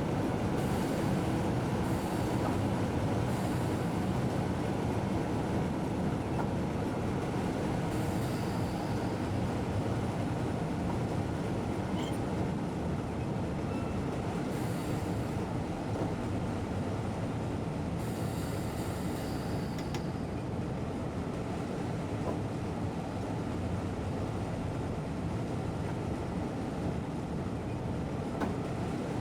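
Train running, heard from inside the driver's cab: a steady rumble of wheels on rails. A few short stretches of high hiss come over it, the longest about eighteen to twenty seconds in.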